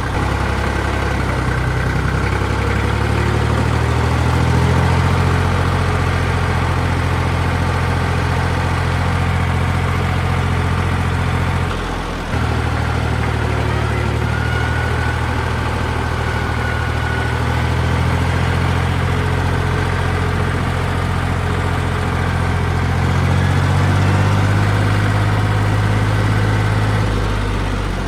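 1962 Porsche 329 tractor's air-cooled three-cylinder diesel engine running steadily while the tractor is driven. The engine note dips briefly about twelve seconds in and swells a little near the end.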